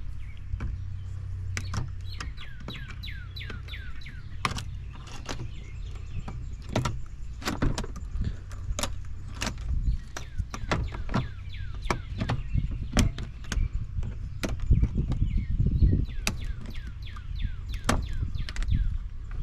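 Irregular sharp clicks and knocks of hand tools and loose metal parts while a dishwasher is being dismantled, with a bird chirping in short falling runs of notes several times.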